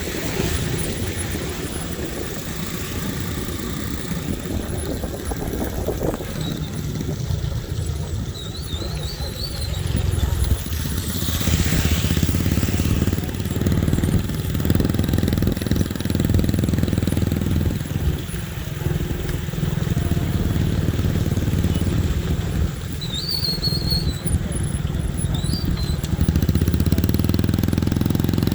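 Motorcycle engine running steadily, getting louder about ten seconds in, with a few faint, short, high chirps.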